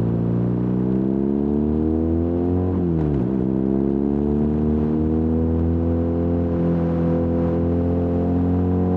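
BMW R nineT's air-cooled boxer twin through its stock Akrapovič muffler with the baffle removed, pulling up through the revs, dropping sharply about three seconds in as on a gear change, then building again more slowly and holding steady.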